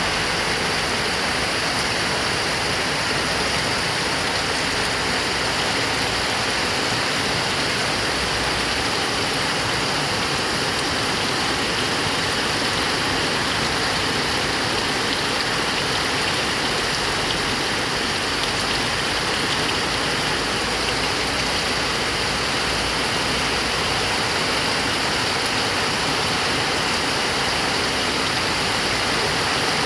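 Heavy rain pouring steadily with strong wind, an unbroken even rush with no separate drops or gusts standing out.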